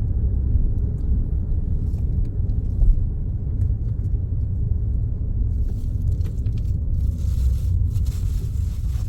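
Low, steady rumble of a car in motion, engine and tyre noise heard from inside the cabin, with a rush of hiss rising over it about halfway through.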